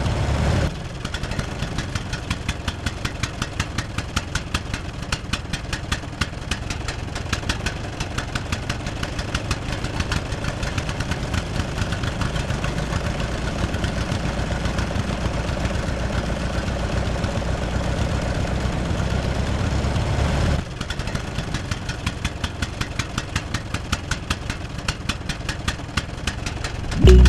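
Small engine of a DIY mini tractor running with a rapid, even beat, dropping suddenly in level about a second in and again about two-thirds of the way through. Music comes in at the very end.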